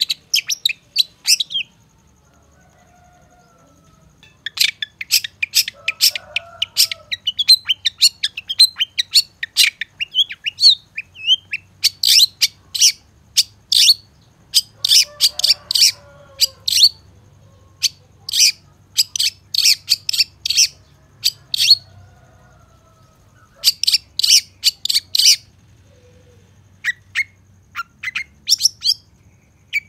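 Long-tailed shrike (cendet) singing a fast, chattering song of sharp, high, clipped notes in bursts of about a second, with a pause of a couple of seconds near the start. Fainter, lower bird calls sound underneath.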